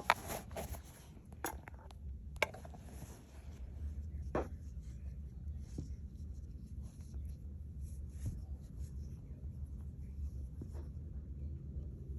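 Light handling noises of a needle and cord being worked through knitted i-cord loops: scattered soft clicks and scratchy rustling, with a sharper click about two and a half seconds in and another past four seconds, over a low steady hum.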